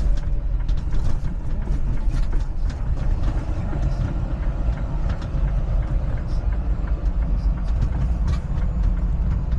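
Semi truck's diesel engine running with a steady low rumble while the truck creeps along, with scattered light clicks and rattles over it.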